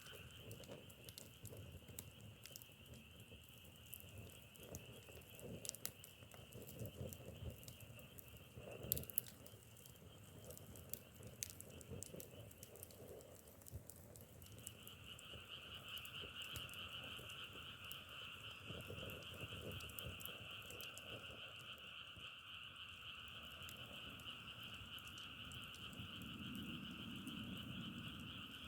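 A chorus of frogs trilling steadily, breaking off briefly about halfway through and then resuming louder. Scattered small crackles and pops, like burning firewood, run underneath.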